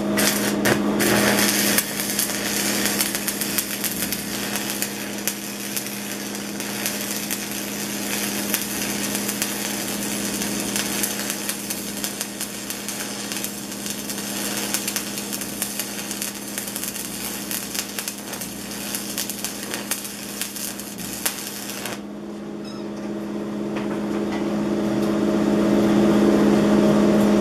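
Stick (SMAW) arc welding with a 3/32 in. 7018 rod at about 105 amps: the arc crackles and sizzles for about 22 seconds, then breaks off suddenly. A steady low hum continues underneath.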